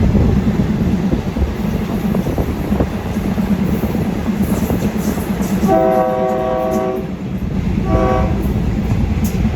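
Train running with a steady rumble and wheel clatter, then its horn sounds twice: one long blast about six seconds in and a short one about two seconds later.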